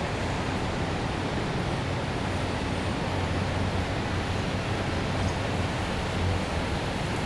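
Steady city ambience: an even wash of distant traffic noise with a constant low hum underneath.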